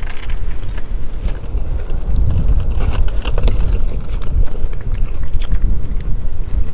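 Wind buffeting the microphone: a loud, steady low rumble, with scattered small clicks and crackles on top.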